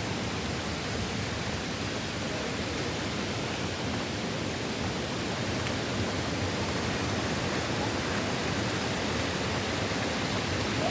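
Steady rushing noise of a hurricane's wind and rain, even and unbroken.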